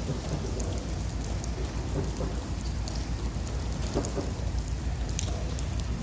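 Steady low rumble and hiss with scattered light ticks: a Florida East Coast Railway freight train approaching on the track.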